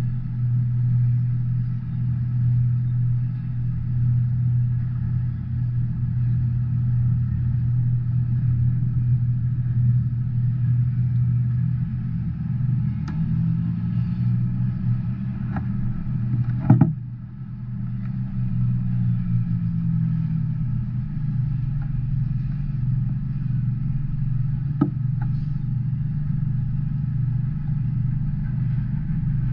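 Double-stack intermodal freight train rolling past, heard through a window glass as a steady low rumble. A single sharp knock cuts through about halfway, with a few fainter clicks.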